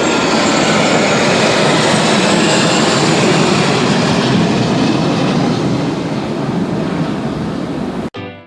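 Loud jet aircraft roar from a close flypast, steady and easing a little toward the end, then cut off suddenly near the end.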